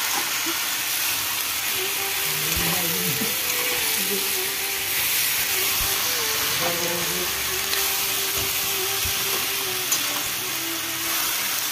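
Chopped vegetables sizzling in hot oil in an iron kadai over a gas burner as a steady hiss, stirred with a ladle, with a few brief knocks of the ladle against the pan.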